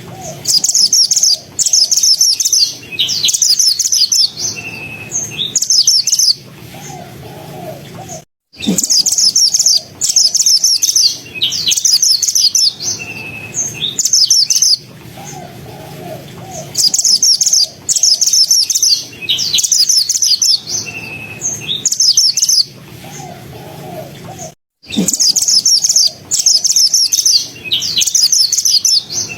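Mantenan songbird singing fluent, rapid, tightly packed high trilled phrases in repeated bursts. The recording loops, with a brief dropout about 8 seconds in and again near 25 seconds.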